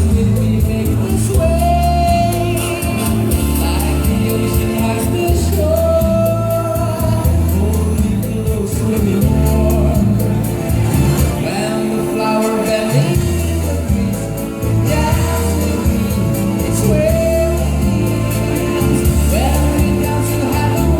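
Soft dinner music from a band, with a sung melody over a steady bass line.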